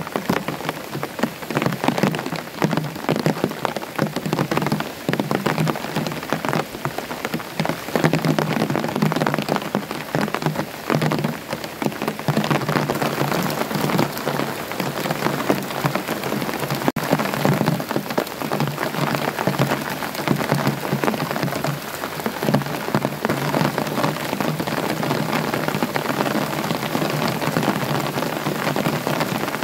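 Rain that has just begun, falling steadily: a dense patter of countless drops striking surfaces, even in loudness throughout.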